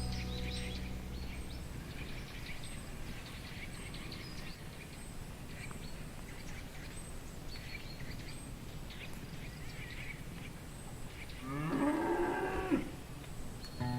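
A cow mooing once, a single call of just over a second that rises in pitch and then holds, near the end. Underneath is a steady background hiss with faint high chirps.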